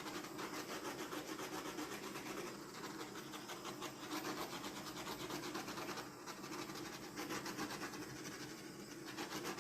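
Heat gun blowing steadily over wet acrylic pour paint: a constant rasping rush of air with a fast, even pulse from its fan motor.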